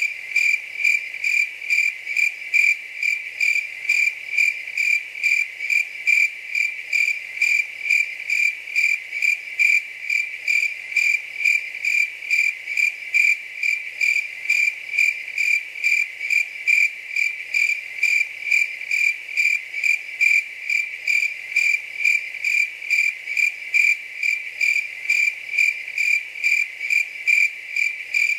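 Cricket chirping steadily: a high, pure-toned chirp repeating at an even rhythm, a little over two chirps a second, unchanging throughout.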